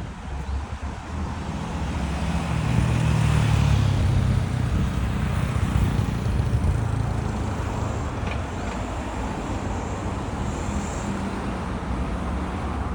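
Street traffic: a vehicle passes close by, loudest a few seconds in, then steady road noise.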